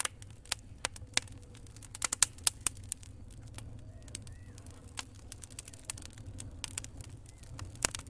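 Wood fire in a fireplace crackling: irregular sharp pops and snaps, with a quick flurry of them about two seconds in and another near the end, over a low steady rumble of the burning fire.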